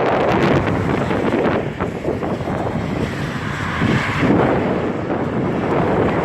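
Strong wind buffeting the microphone in a snowstorm: a loud, gusting rumble.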